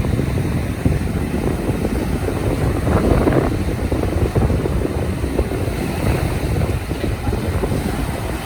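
Wind buffeting the microphone over a steady low rumble of engines and surf, with a brief louder gust about three seconds in.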